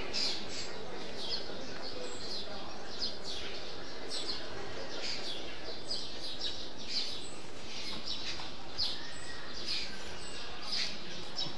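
Small birds chirping over and over, about two short high chirps a second, over a steady background hiss.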